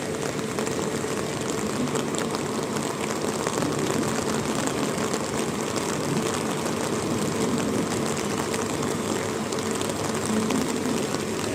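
Heavy rain falling steadily, a constant hiss with many scattered drop ticks.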